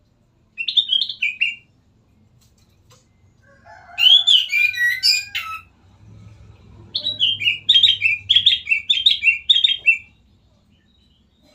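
Kutilang emas bulbul singing in three bursts: a short phrase, then a louder, varied warbling phrase, then a quick run of about a dozen repeated falling notes.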